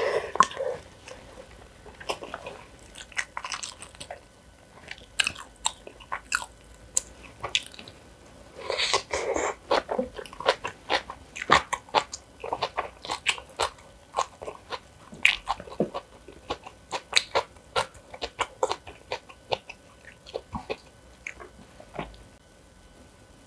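A person eating close to the microphone: crisp crunching bites and chewing, with many sharp crunches in quick runs that thin out near the end.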